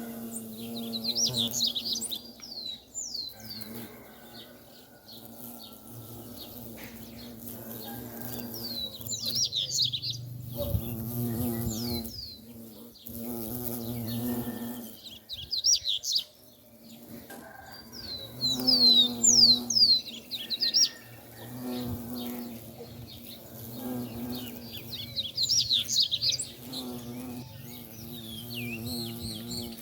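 Bumblebees buzzing, a low hum that swells and fades as they fly close to the microphone and away. A songbird sings short, quick twittering phrases every few seconds over it.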